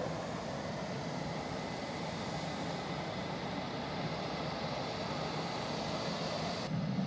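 Steady running noise of an F/A-18 Hornet's jet engine, with faint high whine tones over a low rumble; the sound changes abruptly near the end.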